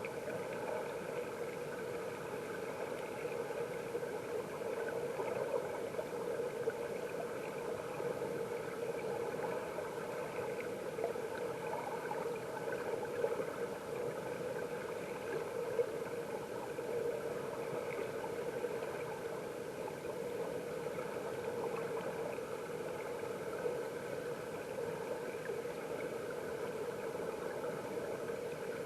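Stream water flowing, heard by a camera submerged underwater: a steady, muffled rush with a level droning hum.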